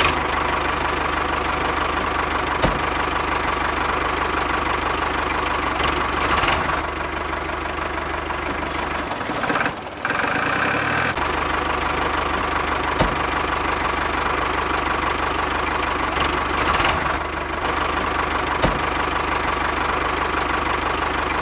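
The motor of a homemade miniature tractor running steadily with an even hum, which drops away for about a second near the middle before carrying on.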